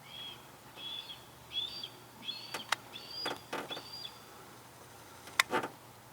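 A songbird singing a series of about six short whistled notes, each a little higher than the last, with a few sharp clicks or taps mixed in, the loudest near the end.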